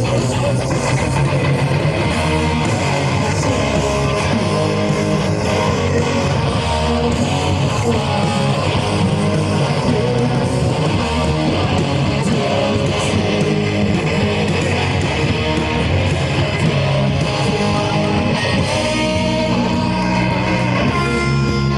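Live rock band playing an instrumental passage, electric guitars strummed over bass guitar and drums, with no singing.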